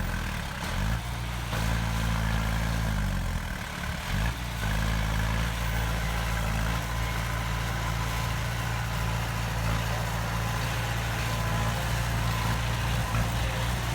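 Heavy diesel engine of a construction machine running steadily; about three to four seconds in its pitch briefly drops and then comes back up.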